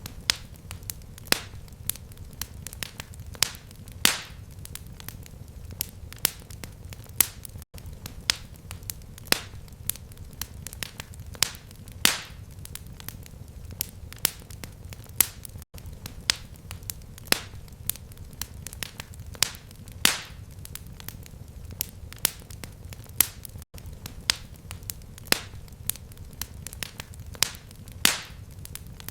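Fireplace fire crackling: irregular sharp pops and snaps over a low steady rumble. The same stretch of crackles repeats about every eight seconds, a short loop with a brief dropout at each seam.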